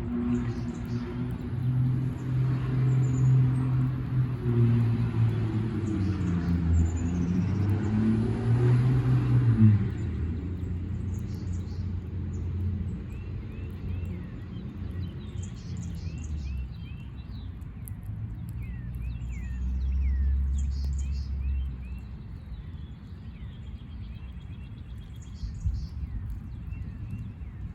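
A motor vehicle's engine runs for the first ten seconds or so, its pitch shifting, then stops. Small birds chirp throughout, most clearly once the engine is gone, with a brief low rumble about two-thirds of the way through.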